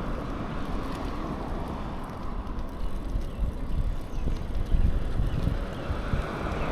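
Wind rumbling steadily on the microphone of a bicycle being ridden.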